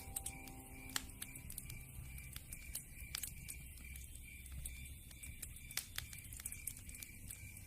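Wood fire crackling: burning logs giving off irregular sharp pops and snaps over a low rumble, with a few louder snaps.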